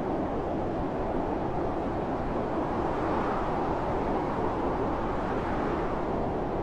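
Blizzard wind, a loud steady rushing noise of wind and blowing snow that swells slightly near the middle.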